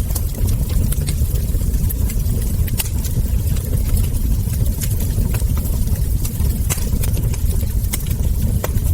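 Wood fire burning, with frequent irregular crackles and ember pops over a steady low rumble of the flames.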